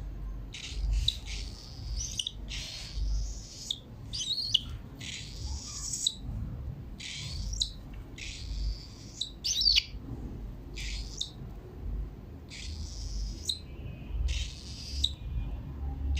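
Pet cockatiels giving a string of short, harsh chirping calls, one every second or so.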